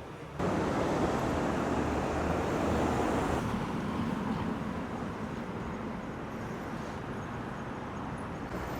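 Road traffic noise: a steady rush of passing vehicles that starts abruptly about half a second in.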